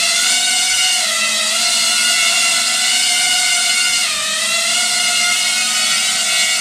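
Small 3-inch toothpick FPV quadcopter set up as a pusher, its AMAXinno 1303 5000KV brushless motors spinning Gemfan 3016 three-blade props, hovering with a steady high whine. The pitch dips briefly twice, about a second in and about four seconds in.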